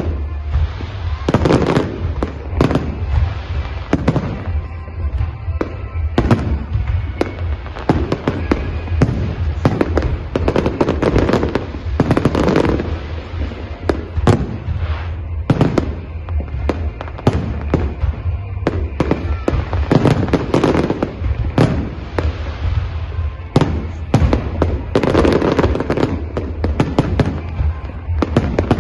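Professional aerial fireworks display, shells bursting and crackling in rapid, continuous succession.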